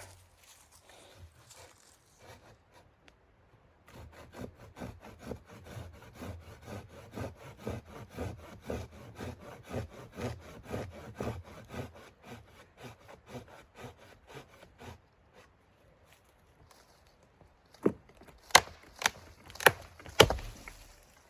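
Wood being sawn by hand: a long run of quick, even back-and-forth strokes. Near the end come five sharp, loud knocks about half a second apart.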